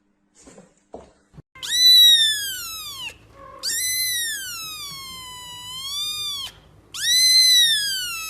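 An animal crying out three times in long, high wails. Each rises and then falls in pitch, and the first and last are the loudest.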